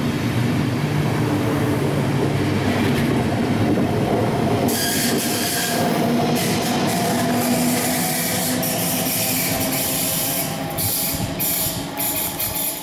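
A DB Intercity train passing through a station without stopping: a steady rush of coach wheels on the rails. About five seconds in, the electric locomotive at the rear goes by, bringing a brighter high hiss and rapid clatter. The sound falls off near the end as the train draws away.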